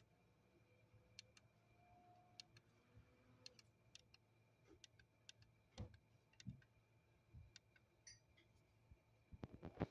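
Near silence with faint scattered clicks, and a quick run of louder clicks near the end.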